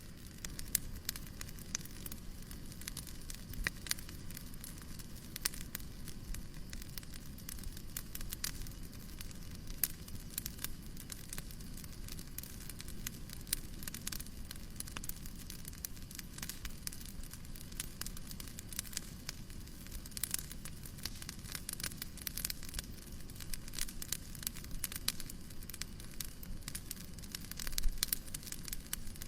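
Wood fire in a fireplace crackling, with dense irregular pops and snaps over a steady low rumble and soft hiss; one louder pop near the end.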